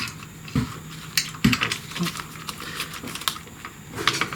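Irregular light clicks and taps, with a few dull knocks, of metal parts and tools being handled while a piece of a motorcycle's heel-toe rocker shift linkage is worked into place.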